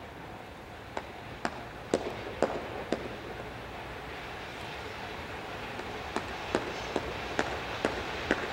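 Freight train hauled by an EF210 electric locomotive approaching, its rumble slowly growing louder. Over it comes a run of sharp clacks of wheels striking rail joints, about two a second: five at first, then a pause of about three seconds, then more again.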